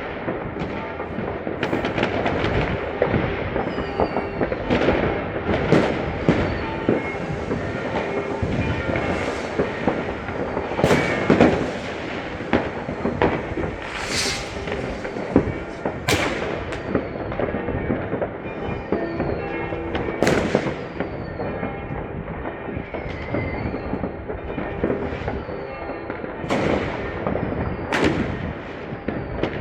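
New Year's Eve fireworks going off continuously: a dense crackle of firecrackers with many sharp bangs of rockets and shells, some near and loud, others farther off. From about two-thirds of the way in, short falling whistles sound again and again.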